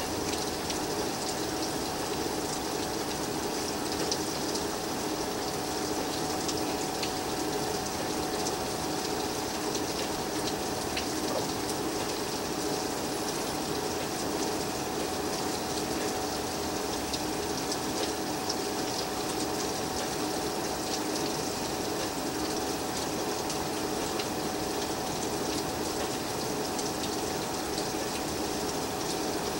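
Steady rain falling outside during a storm, a constant hiss with fine scattered patter, and a steady low hum underneath.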